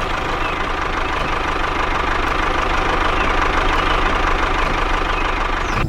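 Mini tractor engine running steadily at idle, a low rumble with a faint steady whine, cutting off suddenly near the end.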